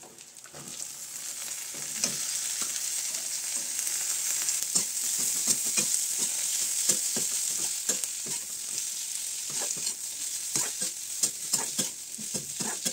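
Strips of bottle gourd peel sizzling as they fry in oil in a metal kadai, stirred with a metal slotted spoon that clicks and scrapes against the pan. The sizzle swells over the first couple of seconds as the strips go in, then holds steady.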